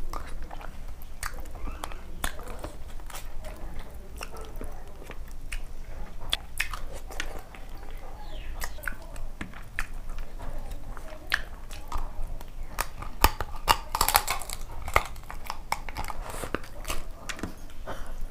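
Close-miked mouth sounds of a person eating rice with fish curry by hand: wet chewing and lip smacks with many sharp clicks and some crunching. The loudest cluster of clicks comes about fourteen seconds in.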